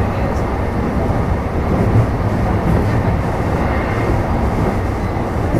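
Steady running noise of a JR East E233-3000 series electric train, heard from inside a motor car: a continuous low rumble of wheels on rails and running gear.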